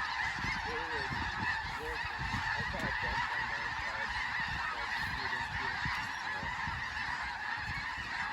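Large flock of snow geese calling: a steady, dense din of overlapping honks with no break.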